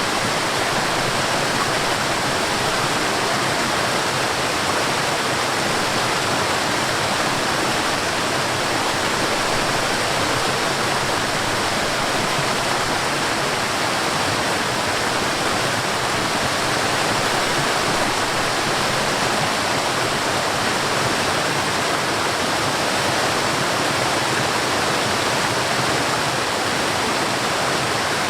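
Waterfall in a forest, its falling water making a steady, even rushing noise with no change in level.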